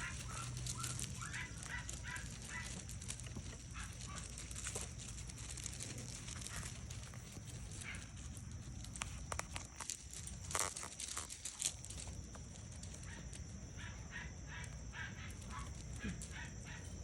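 Young Rhodesian Ridgeback puppies making short, high squeaks and yips in quick runs near the start and again near the end, with scattered sharp clicks and knocks in between, over a steady high-pitched hiss.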